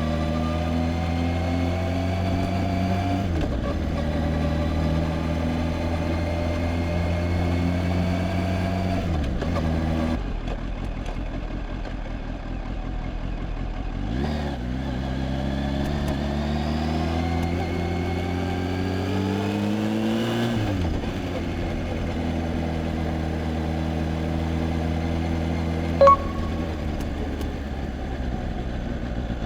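Kawasaki Z H2's supercharged inline-four engine running under way. Its pitch climbs as the bike accelerates and drops at each gear change: a small shift early on, another around nine seconds, and a long climb ending in a shift past the middle. A short sharp beep sounds near the end.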